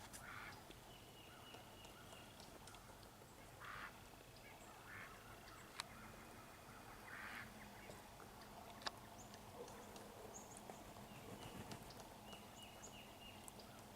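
Ducks quacking faintly: a handful of short raspy calls spread across several seconds, with a few light clicks between them.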